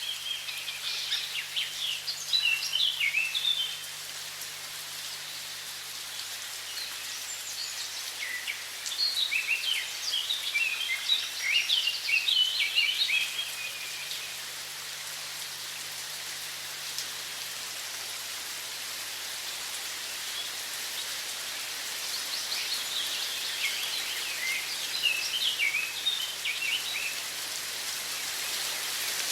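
Steady rush of running water, with songbirds singing in three spells of quick, high chirping phrases: at the start, through the middle, and again in the last few seconds.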